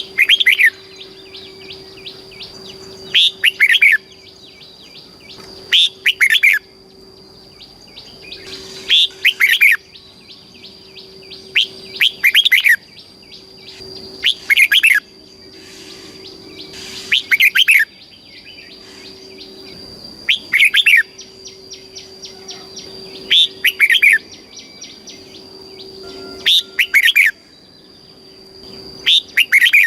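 Red-whiskered bulbul singing short, bright song phrases, repeated about every three seconds.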